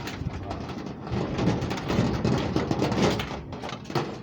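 Small M12B four-stroke model gasoline engine being cranked over without starting, a rapid clattering that swells and fades in uneven surges. It is turning over but not firing, a failure the owner puts down to ignition timing or valves being off.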